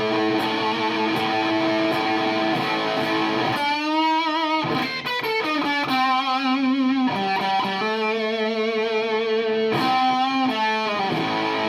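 Electric guitar played through a germanium Sola Sound Tone Bender Mark IV fuzz pedal: held chords and single notes, several shaken with wide vibrato around the middle and again near the end.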